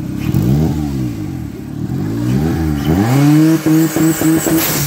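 Tuned car engine revved with the bonnet open. Two quick blips rise and fall, then the revs are held high, stuttering briefly, before dropping back near the end.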